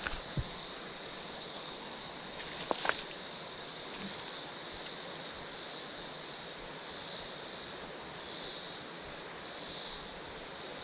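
Steady, high insect chorus in summer heat that swells and fades about every second and a half, over the even rush of flowing creek water, with a few faint clicks.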